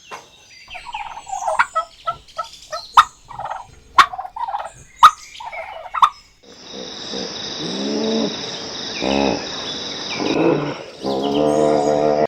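Turkeys gobbling: a run of short, sharp calls for about six seconds. Then, over a steady hiss, a few longer pitched calls follow.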